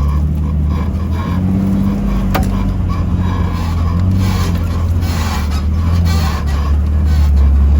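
Off-road vehicle's engine running at low revs while crawling a trail, a steady low drone with a slight rise in pitch a little over a second in. A single sharp click about two and a half seconds in.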